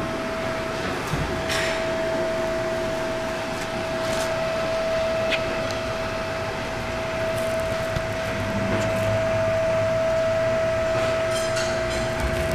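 Workshop background noise: a constant machine hum with a few scattered knocks and clatters, and a low rumble that swells in the second half.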